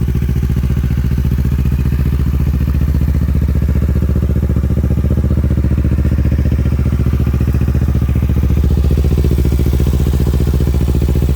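2023 Kawasaki Ninja 650's parallel-twin engine running steadily at idle through an aftermarket Yoshimura full exhaust, with an even, unchanging pitch. It is a healthy motor that sounds as it should.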